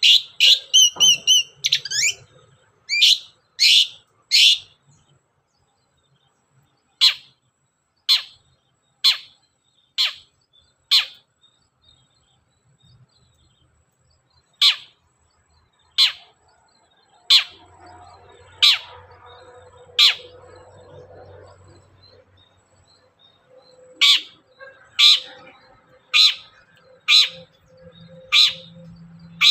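Long-tailed shrike (cendet) singing: a quick burst of varied high warbling notes in the first two seconds, then single sharp calls, each sweeping downward, repeated about once a second with a couple of short gaps.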